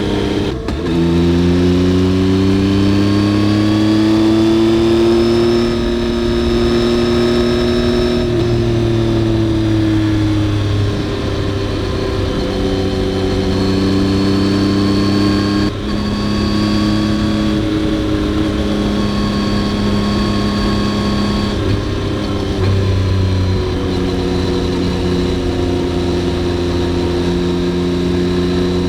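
Yamaha XSR900's three-cylinder engine running under load: its note rises over the first few seconds, holds, then falls away, and keeps on at a steady pitch after that. There are brief sharp drops in the sound about half a second in and again about halfway through.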